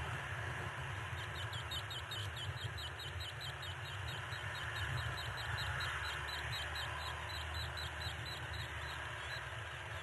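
A bird calling a rapid series of short, high chirps, several a second, starting about a second in and stopping near the end, over a steady low rumble.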